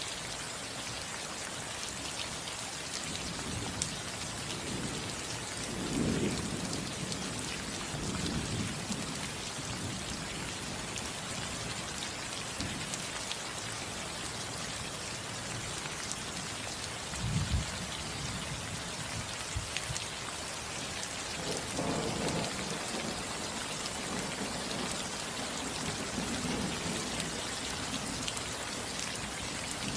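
Steady rain falling on a roof, with several low rolls of thunder rumbling through it.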